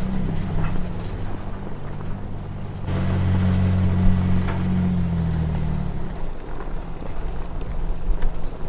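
Off-road vehicle engine running while driving on a dirt trail. The engine note gets louder about three seconds in and falls away about six seconds in, leaving rumbling road noise with small ticks.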